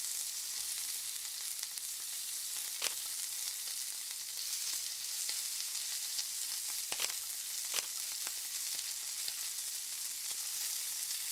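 Eel sizzling as it grills: a steady hiss with three sharp pops, about three, seven and eight seconds in.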